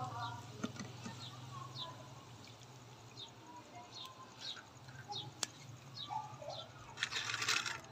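A bird calling repeatedly with short, high, falling chirps, about one or two a second, over a faint low hum. Near the end there is a brief rush of hiss.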